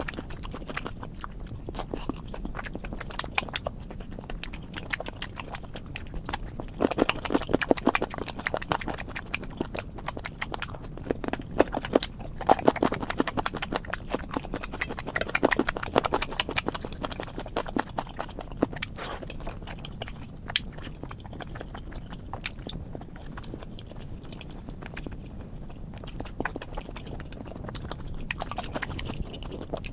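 A person chewing and eating food close to the microphone: wet, clicky mouth and chewing sounds, denser and louder in a few stretches near the middle.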